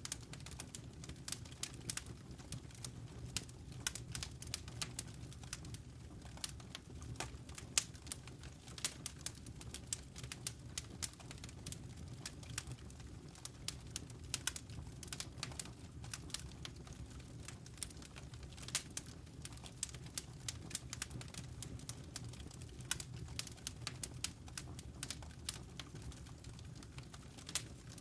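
Wood fire burning in a fireplace: a dense, irregular crackle of small sharp pops over a steady low rumble of the flames.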